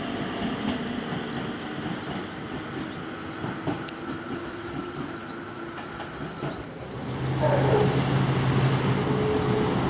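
JR Kyushu 817 series electric train running, its motor and inverter whine sliding slowly down in pitch, with light clicks from the rails. About seven seconds in the sound changes abruptly to a louder, steady low hum.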